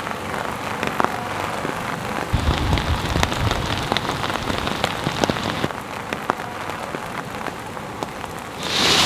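Rain falling on wet pavement, an even hiss dotted with many separate drop ticks. Near the end it swells to a louder, steadier hiss.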